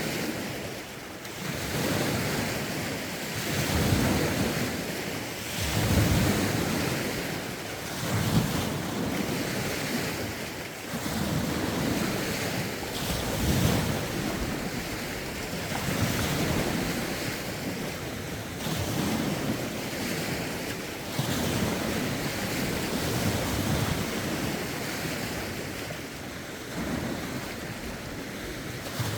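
Lake waves washing against the shore in a steady rhythm, a surge every two seconds or so, with wind buffeting the microphone.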